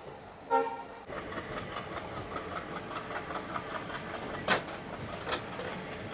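A train horn gives one short toot about half a second in. Then the coach rolls slowly with a steady rail noise and quick, rhythmic clicking, with two sharp clacks near the end.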